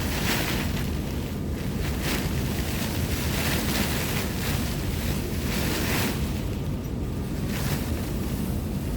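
Torrential rain driven by strong gusting wind, with wind buffeting the microphone. The hiss of the rain swells every second or two as gusts sweep through.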